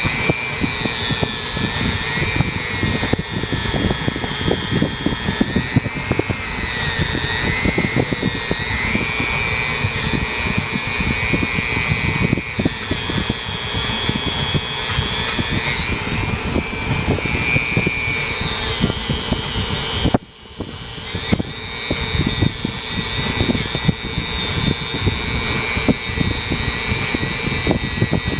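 Dremel rotary tool with a wire wheel running at high speed against carbon deposits, its whine dipping and rising in pitch over a gritty scraping noise. It stops for a moment about twenty seconds in.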